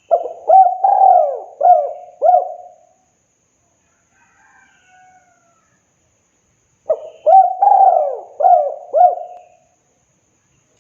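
Spotted dove singing its cooing song: two phrases of about five notes each, one at the start and one about seven seconds in. Faint high chirps of another small bird are heard in the gap between the phrases.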